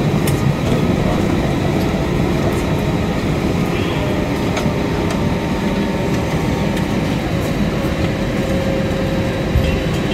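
Steady rumble inside the cabin of an Airbus A320-232 taxiing after landing: engine and rolling noise heard from a passenger seat, with scattered light clicks and rattles.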